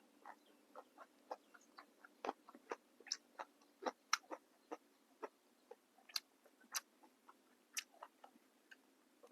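A person chewing a mouthful of grilled beef salad with crisp raw vegetables and sticky rice: a run of small irregular wet clicks and crunches, about two a second.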